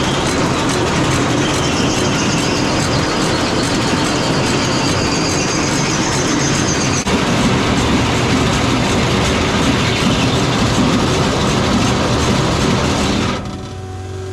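Silage feed cart's mechanism running, a loud steady clattering rattle that cuts off abruptly near the end.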